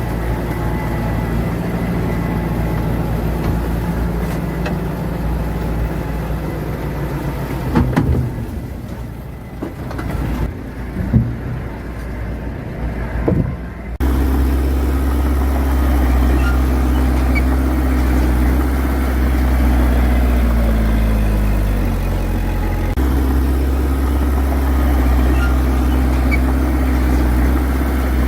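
Heavy diesel engine of earthmoving machinery running steadily, with a few clanks about a third of the way in. About halfway through, it switches suddenly to a louder, deeper engine note.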